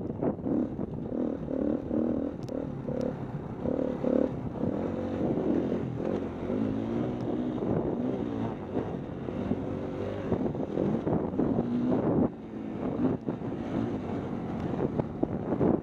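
KTM 250 EXC-F single-cylinder four-stroke dirt bike engine revving up and down as it is ridden over a motocross course, its pitch rising and falling repeatedly and dropping away briefly about twelve seconds in, with wind buffeting the microphone.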